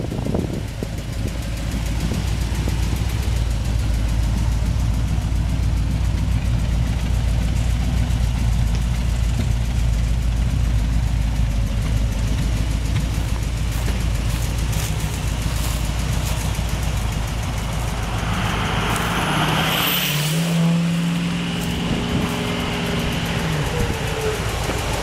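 A motor vehicle engine running steadily with a low rumble. About twenty seconds in the rumble briefly drops away under a short hiss, and a steadier, higher hum follows.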